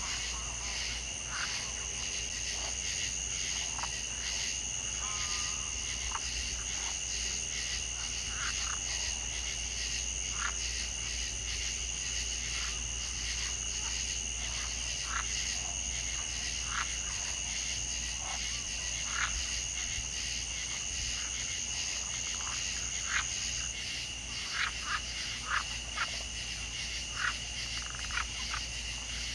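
Chorus of frogs calling: a steady high-pitched trill with short, sharp calls scattered over it, the calls coming more often near the end. The highest trill stops about three-quarters of the way through.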